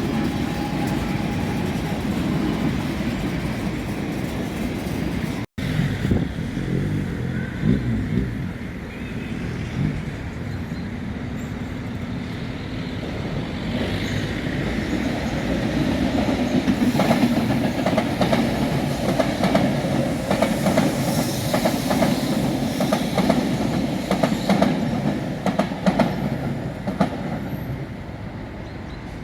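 A train passing close by, a steady rumble with wheels clicking over rail joints, the clicks thickest in the second half. The sound cuts out for an instant about five seconds in.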